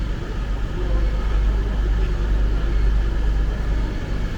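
Low, steady rumble of railway station ambience, swelling a little in the middle, with a faint higher hum above it.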